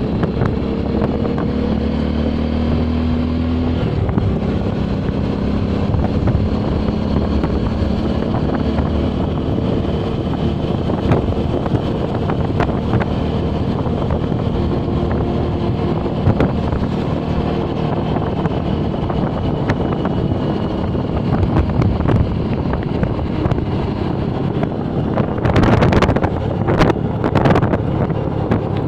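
Motorcycle engine running steadily on the move, with wind rushing over the microphone. The engine note shifts about four seconds in, and there are a few louder bursts of noise near the end.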